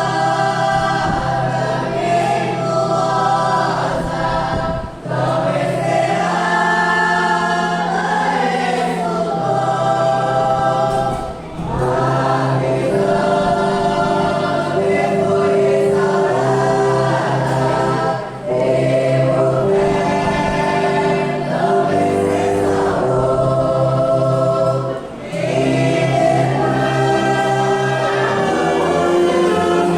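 Congregation and church orchestra performing a hymn: many voices singing together over sustained brass and woodwind notes, in long phrases with brief breaths about every six to seven seconds.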